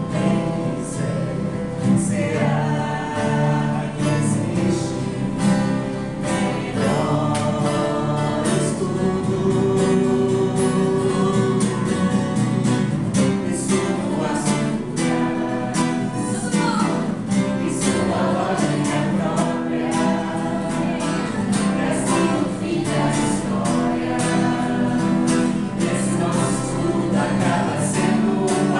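Several voices singing a song together over a strummed guitar accompaniment.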